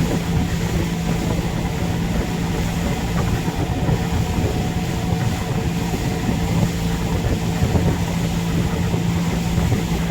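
Boat engine running steadily under way, a constant droning hum over rushing noise, heard from aboard.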